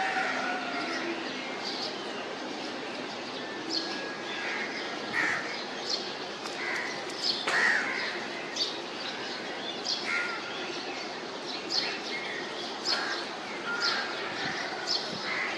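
Several birds chirping and calling outdoors, many short high calls coming every second or so over a steady background hiss.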